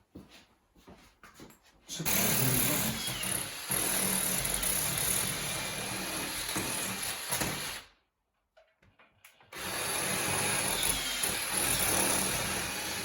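An electric power tool running in two long stretches, about six seconds and then about four seconds, with a short stop of a second or so between them.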